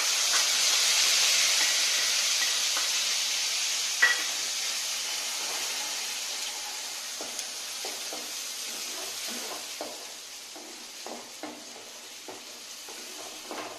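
Onion paste sizzling as it hits hot oil in a kadai, the hiss loud at first and slowly dying down. A single sharp clack comes about four seconds in. From about halfway, a wooden spatula stirs and scrapes the paste around the pan.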